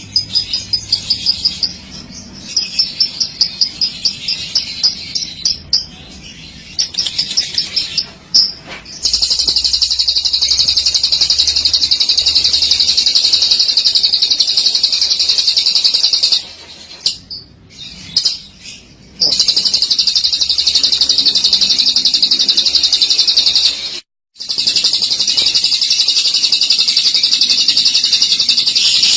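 Lovebird's long 'ngekek' song: a high, rapid chattering trill. It comes first in short bursts, then runs unbroken for seven seconds and more at a time, with two brief breaks.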